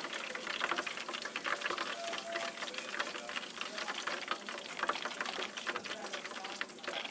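Steady dense crackling and sizzling of chicken deep-frying in hot oil.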